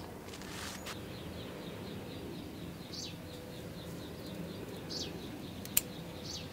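Birds calling outdoors: a steady series of short high chirps about four a second, with three louder high calls that sweep downward. A single sharp click near the end is the loudest sound.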